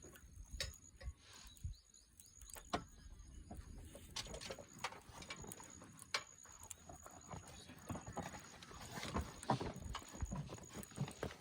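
Wood fire crackling, with irregular sharp pops that come more thickly in the second half.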